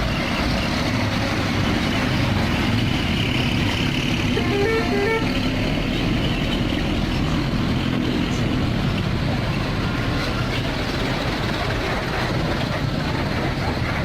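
Heavy truck engine running steadily, with a quick run of short horn toots alternating between two pitches about five seconds in.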